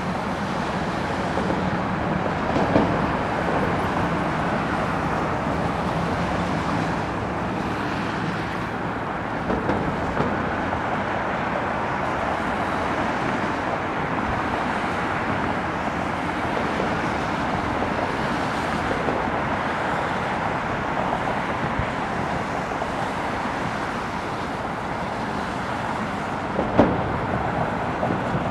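Steady outdoor roar of road traffic and airport noise, with a few brief knocks, the loudest near the end.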